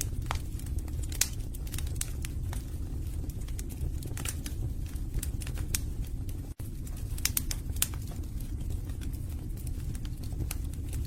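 Wood fire burning in a fireplace: irregular sharp crackles and pops over a steady low rumble of flame. The sound cuts out for an instant about six and a half seconds in.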